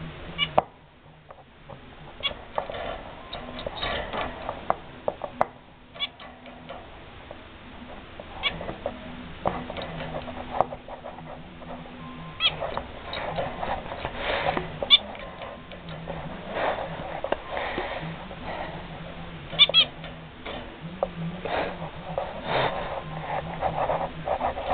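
Pet zebra finch calling over and over, with short nasal beeping calls and chatter scattered through, some in quick clusters.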